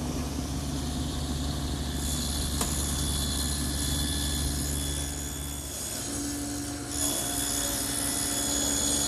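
Table saw with an adjustable dado head cutter running and cutting a dado into a wooden side panel: a steady motor hum under a cutting hiss that grows about two seconds in, eases a little around six seconds, and picks up again about seven seconds in.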